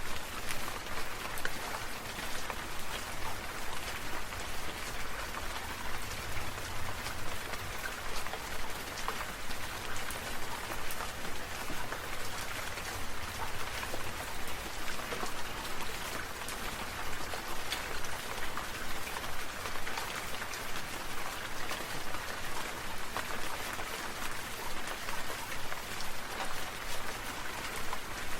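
Water sprinkler spraying, its drops pattering steadily on surfaces like rain, the level pulsing at a regular rate.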